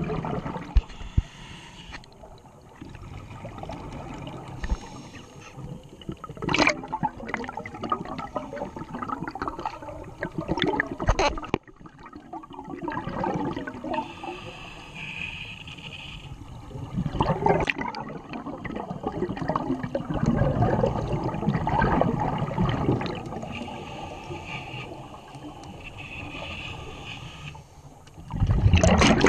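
A scuba diver's exhaled bubbles gurgling and rushing, heard underwater, in repeated surges every several seconds with quieter stretches between breaths.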